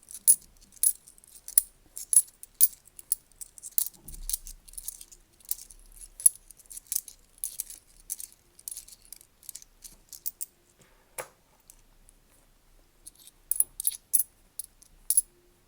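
10p coins clinking and clattering against each other as they are flipped through and spread out by hand, in quick irregular clicks, with a lull about eleven seconds in before a fresh flurry near the end.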